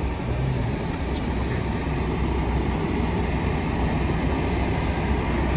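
Steady road and engine noise heard inside the cabin of a moving truck: a constant low rumble under an even hiss of tyres on the road.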